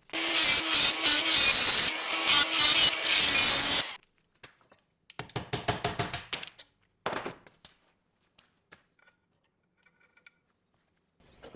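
Harsh abrasive rubbing of a tool working a part for about four seconds, stopping suddenly, followed by a few light clicks of handling and then quiet.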